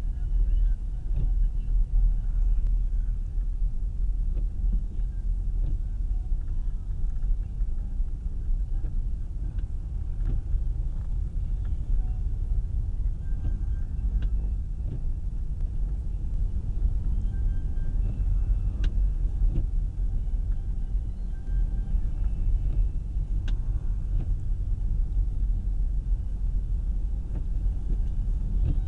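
Steady low rumble of a car's engine and tyres heard from inside the cabin while driving on a snowy road, with a couple of faint sharp clicks.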